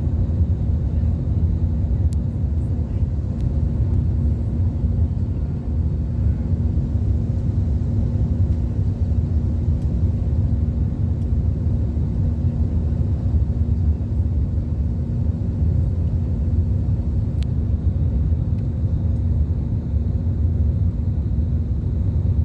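Steady airliner cabin noise: a constant low rumble of engines and airflow heard from inside the passenger cabin, with a steady hum running through it.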